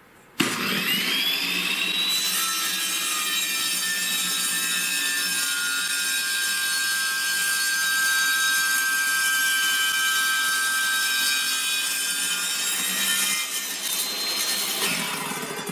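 Table saw with a used 60-tooth carbide blade starting up, its whine rising as the blade spins up, then ripping a slab off a board under steady load. Near the end the pitch climbs again as the blade clears the cut, and the saw is switched off. The cut needs some feed pressure, the sign of a blade that is not dull but not sharp.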